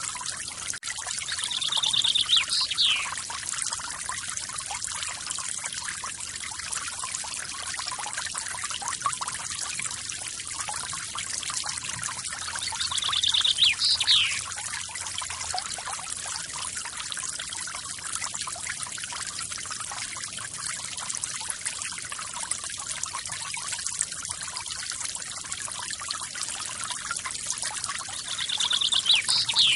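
Steady splashing of a forest waterfall, with a bird singing three times, near the start, halfway and at the end. Each song is a fast, high trill that swells and ends in a quick downward sweep.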